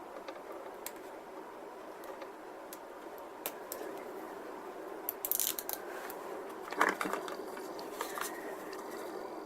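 Light handling sounds of plastic-model work at the bench: scattered small clicks, a short stretch of scraping about five seconds in, and a sharp click a second later, over a steady room hum.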